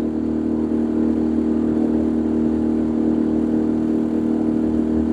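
Boat engine running steadily at constant speed, an even drone with no change in pitch.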